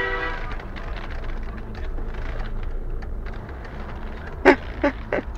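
Steady low rumble of a vehicle's engine and road traffic, with a few short sharp knocks about four and a half seconds in.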